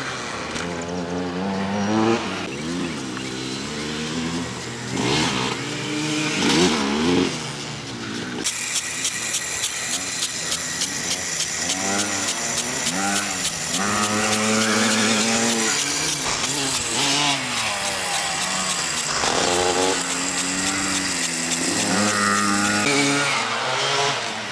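Motocross dirt bike engines revving hard and easing off through the gears, the pitch rising and falling again and again. At times two bikes are heard at once.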